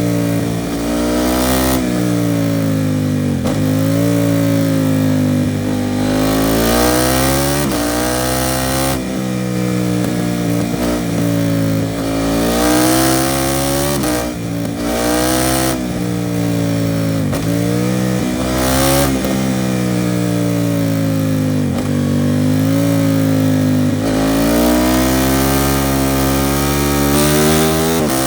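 KTM 790 Duke's parallel-twin engine through an Arrow Pro Race titanium exhaust, accelerating hard again and again. Its pitch climbs through the revs and drops sharply at each gear change or roll-off, with wind noise rising and falling at speed.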